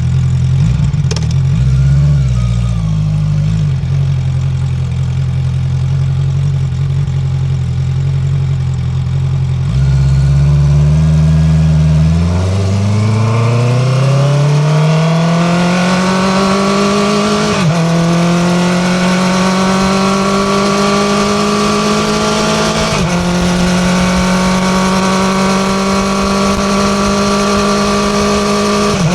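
Honda CB650R inline-four exhaust, picked up close under the tail. It runs low and steady at first, then climbs in pitch as the bike accelerates. The pitch drops suddenly at two gear changes, then settles into a steady cruise.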